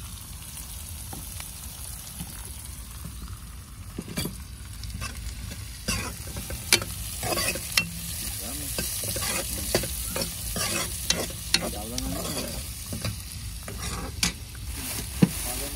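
Chopped onions and vegetables sizzling in hot oil in a steel kadai, the tadka (tempering) for chole, while a steel ladle stirs them. The ladle's strokes click and scrape against the pan again and again, thickest from about four seconds in.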